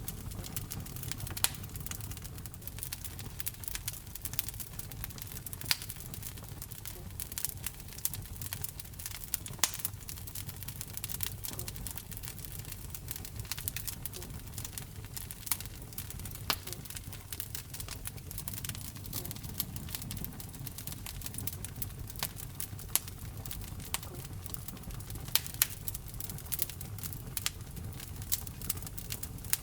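Wood fire burning in a fireplace: steady crackling with a sharp louder pop every few seconds, over a low rumble of the flames.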